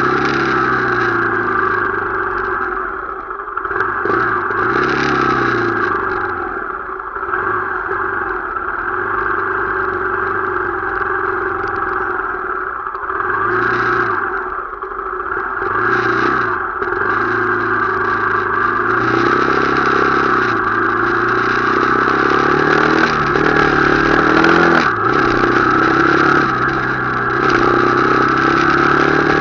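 Motorcycle engine running while riding, its pitch dropping and picking up again several times as the throttle is eased off and reopened.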